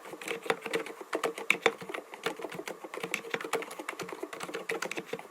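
Typing on an mStone Groove T 87A mechanical keyboard fitted with 45 g low-noise Milky switches: a quick, continuous run of keystrokes.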